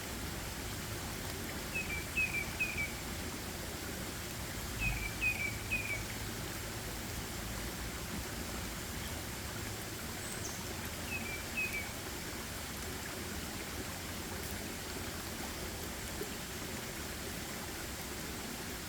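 A small bird giving short, quick call notes in runs of three, heard three times: about two seconds in, about five seconds in and about eleven seconds in, over a steady outdoor hiss.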